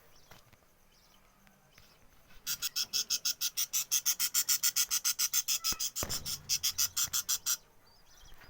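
Budgerigars chirping: a fast, even run of sharp high chirps, about seven a second, lasting about five seconds with a brief break near the end. Softer budgie chatter comes before and after, and there is a dull thump about six seconds in.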